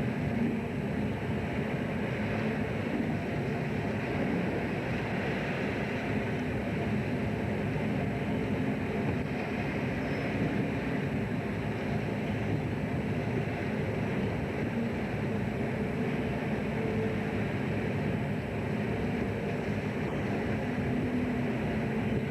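Steady, unchanging drone of a fishing boat's engine and machinery.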